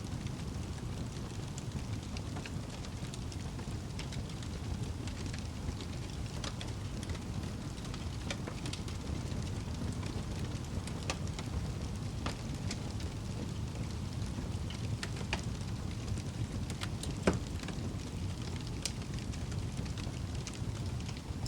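Wood fire burning in a fireplace: a steady low rumble with scattered crackles and small pops throughout, and one louder pop about three-quarters of the way through.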